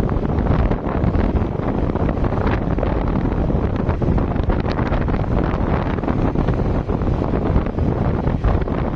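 Loud, steady wind buffeting the microphone, heaviest in a low rumble.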